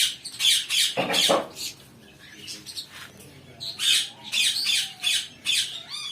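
Pet cockatiels and lovebirds in an aviary setup squawking: many short, shrill calls in quick succession, thinning out for a second or so in the middle and then picking up again.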